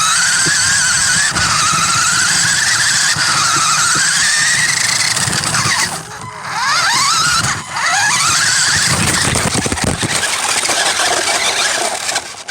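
Small electric motor of a radio-controlled toy whining loudly, its pitch rising and falling with the throttle. It drops out briefly about six seconds in, then revs back up in quick rising sweeps.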